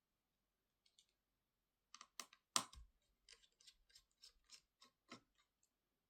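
A run of light clicks and taps of small hard objects being handled, such as tools or laptop parts. One louder knock comes about two and a half seconds in.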